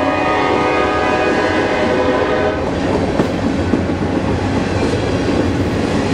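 Freight train of covered hopper cars rolling past close by, with a loud, steady rumble and clatter of wheels on the rails. A steady multi-note tone sounds over it until about two and a half seconds in, after which only the rumble and clatter remain.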